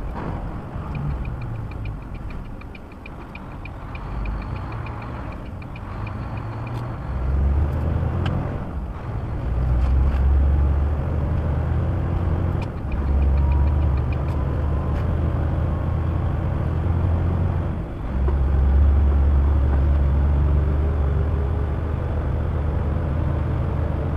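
Truck's engine running, with a strong low drone that swells and eases in long stretches. Rapid, evenly spaced ticking comes and goes in the first seven seconds and again briefly in the middle.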